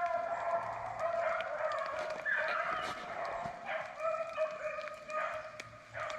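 A pack of beagles baying on a rabbit's trail during a chase, with long drawn-out bawls from several dogs overlapping at different pitches.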